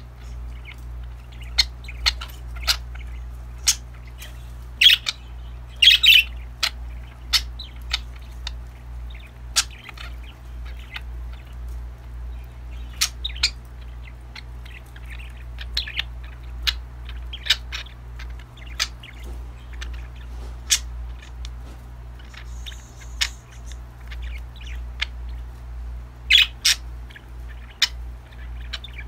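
Pet budgies chirping: many short, sharp chirps and squawks scattered throughout, bunching into louder flurries a few times, over a steady low hum.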